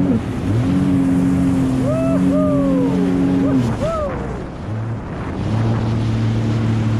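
Sea-Doo GTX Pro 130 jet ski's Rotax three-cylinder engine running under way: it revs up about half a second in, holds steady for about three seconds, eases off around four seconds and picks up again about a second later, over a hiss of water and wind.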